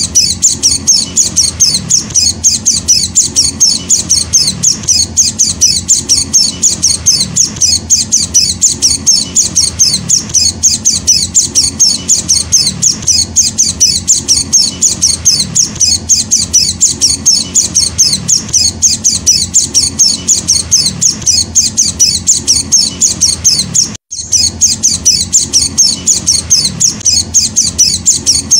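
White-eye (Zosterops) chick giving a fast, steady run of short high chirps, several a second, the insistent calling of a young hand-fed bird. The calling breaks off for an instant near the end, then resumes.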